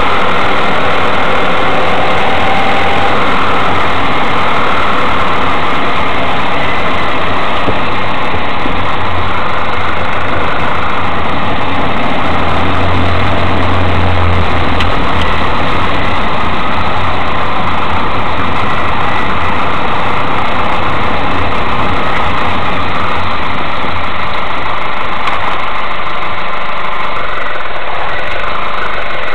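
Mazda 3 engine running steadily, with a low drone that swells about halfway through.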